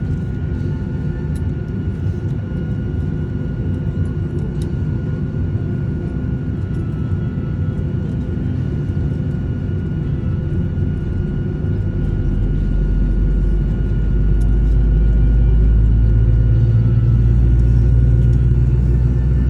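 Airliner cabin noise: a steady rumble and hum from the engines and air system, with a few thin steady tones. The low rumble grows louder about twelve seconds in and stays up.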